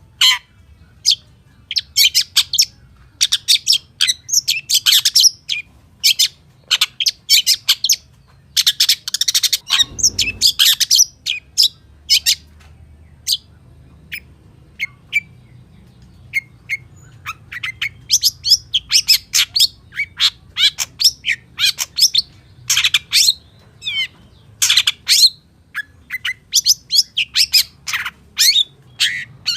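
Long-tailed shrike (pentet) singing a fast, dense run of varied chirps and harsher squawky notes in short bursts with brief gaps: the mimicry-filled 'full isian' song of a bird in full voice. There is a brief low thud about ten seconds in.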